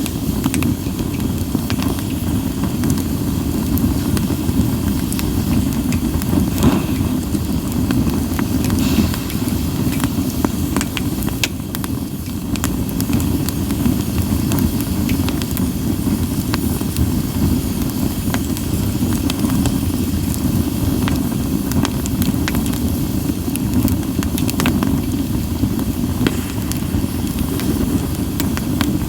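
Campfire of split sawtooth oak (kunugi) firewood burning, with scattered sharp crackles and pops over a steady low rumble.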